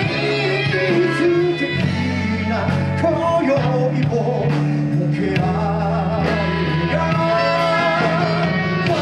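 Live band playing a rock song with singing over electric guitar and bass.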